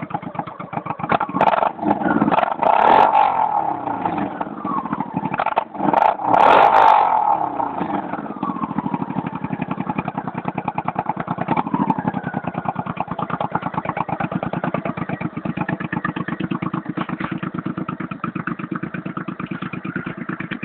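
1986 Honda Shadow VT700C's V-twin engine running through new slash-cut mufflers, revved twice in the first half, then settling to a steady idle.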